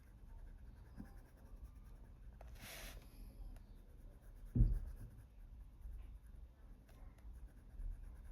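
Colored pencil shading on paper: faint, light scratching strokes, with a brief burst of quicker strokes about three seconds in. A soft low thump comes a little past halfway.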